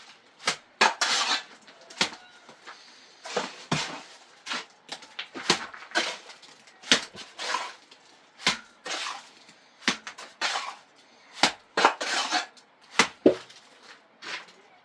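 An irregular series of sharp clinks and knocks, hard objects striking one another, sometimes several in quick succession.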